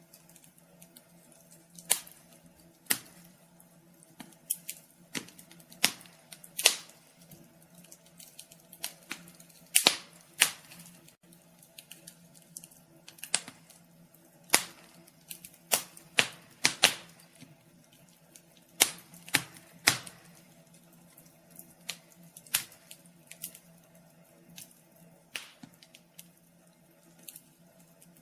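Wood fire crackling: irregular sharp pops and snaps, a few a second, some louder than others, over a faint steady low hum.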